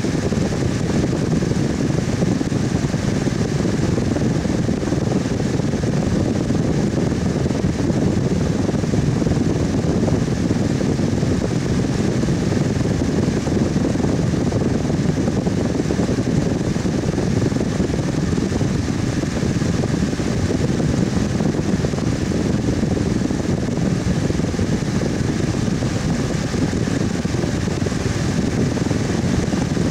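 Electric fan running steadily: an even whoosh of moving air, mostly low and mid in pitch, with a faint hum from the motor.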